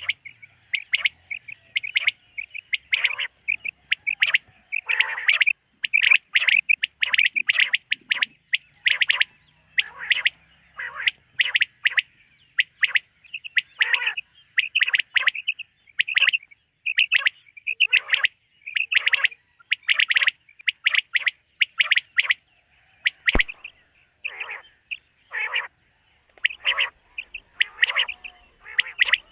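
Common quail calling over and over, short sharp notes repeated about twice a second. A single sharp click about three-quarters of the way through.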